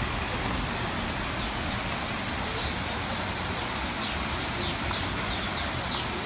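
Small birds chirping in many short, high calls from about a second and a half in, over a loud, steady rushing noise.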